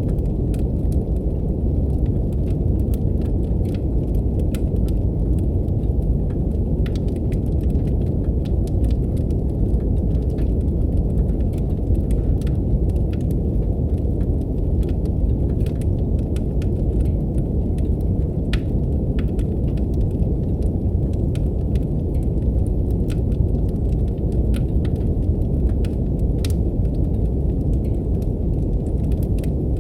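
Steady deep brown noise with fireplace crackle over it: scattered sharp wood-fire pops and snaps, several a second.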